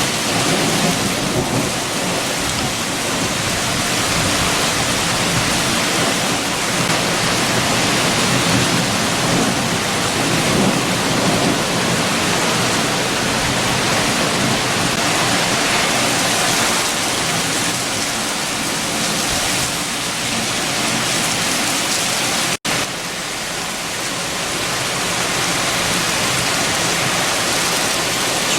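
Heavy rain with strong wind, a steady dense rushing hiss. The sound cuts out for an instant about three quarters of the way through, then resumes.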